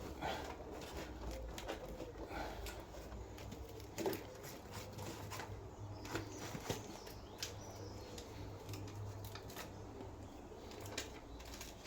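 Hands working self-adhesive sound-deadening sheet: scattered crinkles and small clicks as the backing is peeled and the sheet is pressed down, with a sharper knock about four seconds in.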